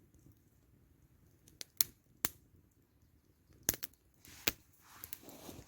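Campfire of dry wood crackling: irregular sharp pops, about half a dozen over a few seconds, over a low steady background.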